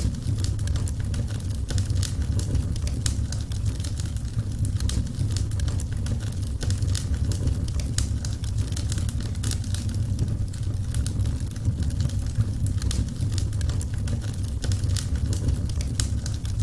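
Burning wood fire crackling, with frequent irregular small pops and snaps over a steady low rumble.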